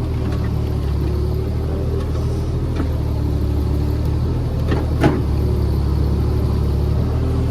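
JCB JS30 Plus mini excavator's diesel engine running steadily with a low, even hum, the machine held still after a full swing. A single sharp click comes about five seconds in.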